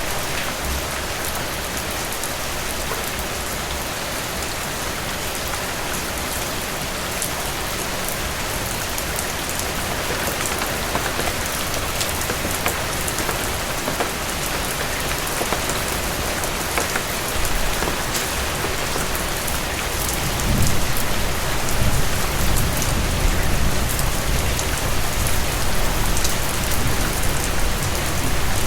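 Steady heavy rain drumming on a cabin roof, with individual drops ticking through the hiss. About two-thirds of the way through a low rumble rises under the rain and stays.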